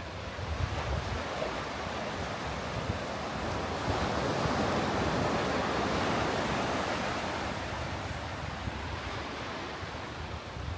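Sea waves breaking and washing up the beach, the rush swelling to a peak about halfway through and then easing off, with wind rumbling on the microphone.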